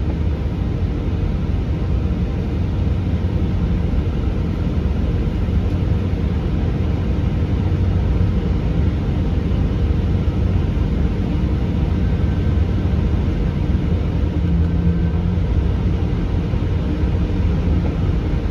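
Steady low rumble of a Class 166 diesel multiple unit running between stations, heard from inside the carriage: underfloor diesel engine and wheels on the rails.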